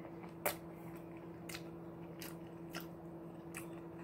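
A person chewing and biting food, with about five short, crisp crunches spread over the four seconds; the first, about half a second in, is the loudest. A faint steady hum runs underneath.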